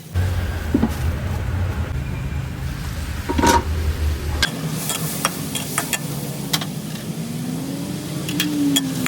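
Chicken gizzards and bell peppers stir-frying: sizzling, with sharp spatula clicks and scrapes. A low rumble runs under it and stops about halfway through.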